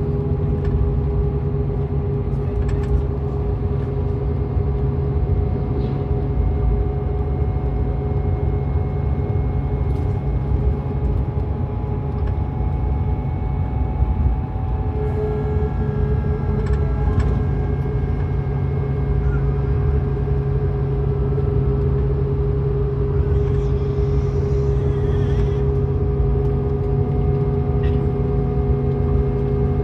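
Scania K410EB6 coach's six-cylinder diesel engine running at a steady pace with road rumble, a constant drone. About halfway through, one of its tones shifts slightly and grows stronger.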